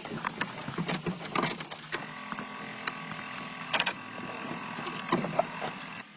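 Irregular mechanical clicks, knocks and light rattles over a faint steady hum, as of metal parts being worked on.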